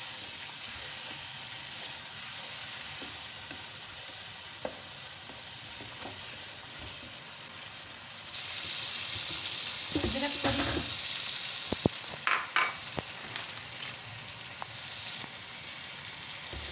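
Mutton masala frying in a nonstick pan, sizzling steadily while a wooden spatula stirs and scrapes it. About halfway through, the sizzle turns suddenly louder and hissier, and a few sharp knocks and clatters of the spatula follow.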